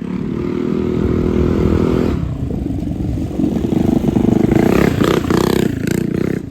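Mini bike's small single-cylinder engine running hard at wide-open throttle. Its pitch dips and shifts about two seconds in, then it runs louder and higher in the second half.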